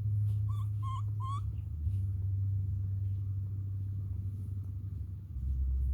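Baby monkey giving three short, high calls in quick succession, each wavering in pitch, in the first second and a half, over a steady low rumble.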